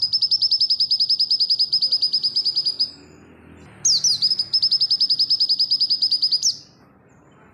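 White-eye (pleci) singing two long, fast trills of evenly repeated high notes, each opening with a few falling notes; the first ends about three seconds in and the second starts about a second later.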